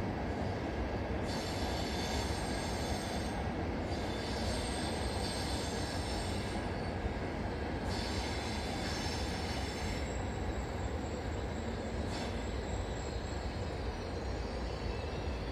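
Frecciarossa high-speed train rolling slowly through the station over a steady low rumble, its wheels squealing in high-pitched stretches that come and go every few seconds.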